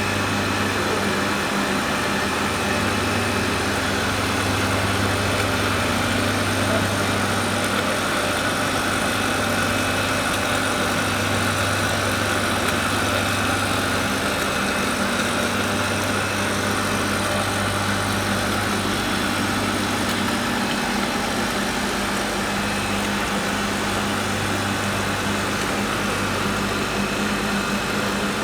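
Electric motor of a food-processing machine running steadily, with a low hum over a steady whirr.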